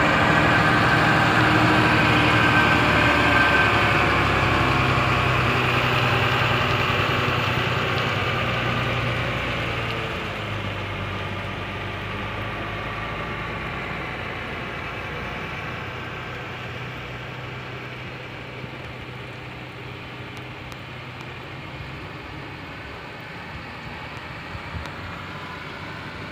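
Truck engine running steadily, growing gradually quieter, with a higher whine in the first few seconds.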